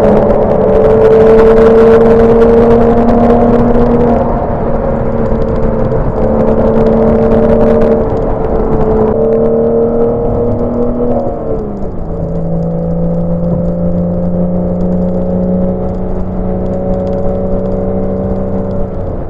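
Porsche 987 Boxster's flat-six DOHC VarioCam engine running at a steady cruise, its note holding almost level and then sliding down to a lower steady pitch about eleven seconds in as the revs drop.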